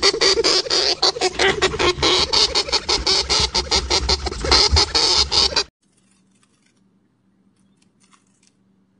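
Rapid run of crunchy clicks, several a second, from a chinchilla in its cage of wood shavings. It cuts off suddenly about six seconds in.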